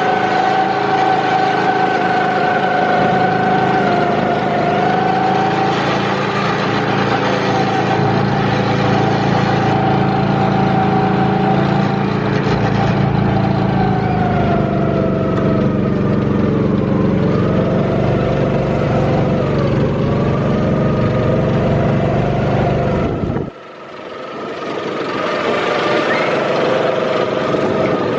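Go-kart's small engine running under way, its pitch dipping and climbing back as the kart slows and speeds up. About three-quarters through, the sound drops off abruptly, then builds back up.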